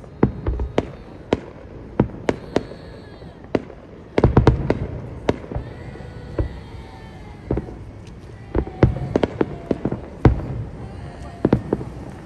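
Fireworks going off in an irregular series of sharp bangs and pops over a low rumble, with quick crackling clusters about four seconds in and again around nine seconds in.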